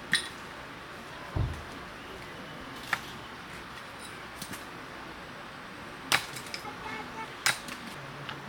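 A few sharp, irregular clicks and knocks over a steady background hiss, with one low thump about a second and a half in.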